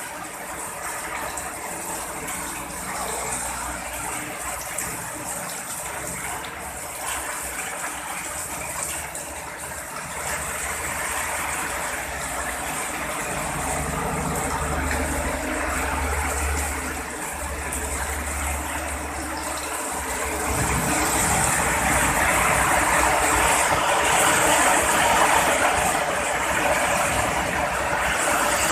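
Heavy rain pouring steadily, with a low thunder rumble about halfway through; the downpour grows louder over the last third.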